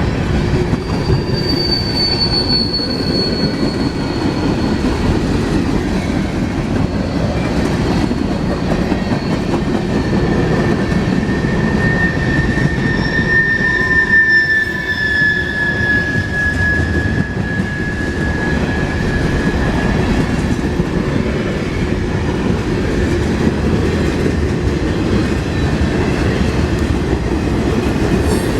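Mixed freight train rolling past: a steady, loud rumble of wheels on rail, with long drawn-out wheel squeals, a high one a second or so in and a lower one lasting about ten seconds around the middle.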